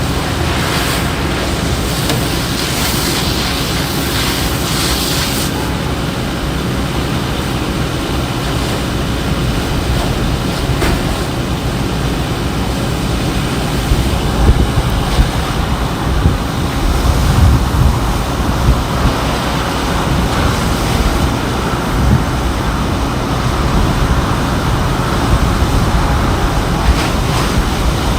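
Wind buffeting the microphone outdoors: a loud, steady rumbling rush over a hiss, gusting harder about halfway through.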